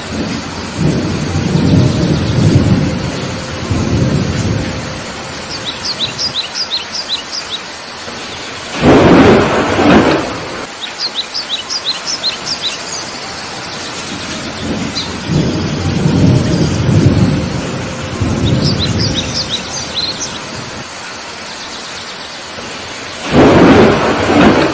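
Heavy rain falling steadily through a thunderstorm, with two spells of low rolling thunder and two loud thunderclaps about fourteen seconds apart. A bird chirps in quick runs of short high notes several times over the rain.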